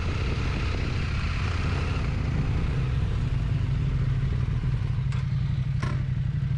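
Motorcycle engine running at a steady pace with rushing wind and road noise while riding. Two short clicks near the end.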